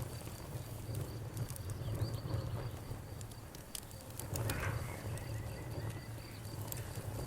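Crickets chirping in a steady pulsing trill, with the scattered pops and crackles of a burning bonfire over a low steady rumble.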